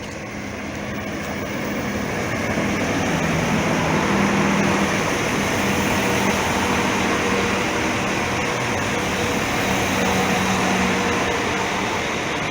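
Northern class 195 diesel multiple unit running through the station: a steady hum from its underfloor diesel engines under wheel and rail noise, swelling over the first few seconds and easing off a little near the end.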